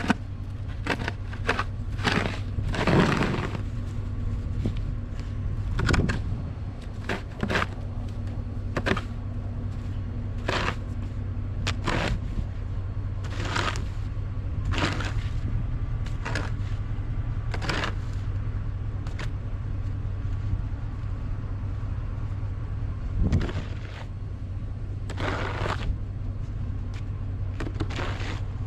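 Snow shovel scraping and chopping into packed snow in quick, irregular strokes, with a few harder hits, over a steady low hum.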